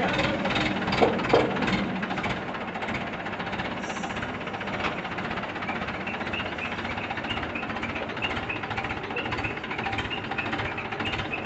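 An engine running steadily with a knocking, rattling rhythm; two sharp knocks stand out about a second in.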